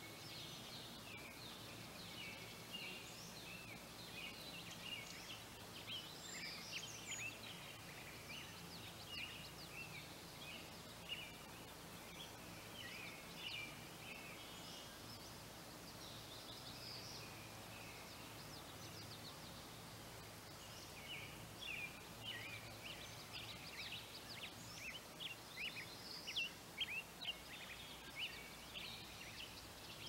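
Small birds chirping in many quick, short calls that thin out for a few seconds past the middle and pick up again towards the end, over a faint steady low hum.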